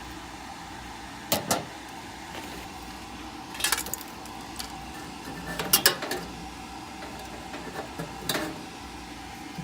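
Scattered sharp metallic clicks and knocks, as of tools and furnace parts being handled, about four clusters over a steady background hum.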